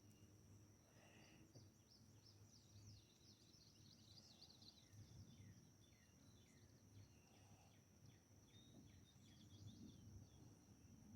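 Near silence: faint outdoor ambience of many quick, falling bird chirps over a steady high insect buzz, with a low rumble underneath.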